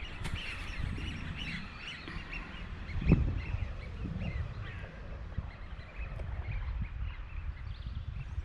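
Many birds calling: a busy scatter of short, high calls over a low, steady rumble. One sharp thump about three seconds in.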